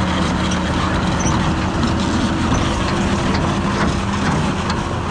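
Excavator's diesel engine running steadily at idle while the bucket is checked for play.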